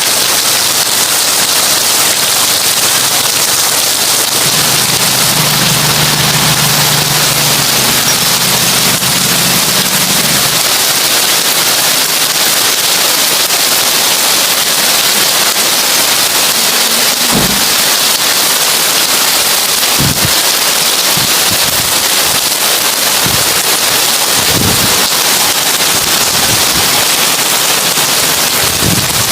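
Heavy rain drumming on a tin roof: a loud, dense, steady patter and hiss. A low hum comes in for several seconds early on, and a handful of dull low thumps sound in the second half.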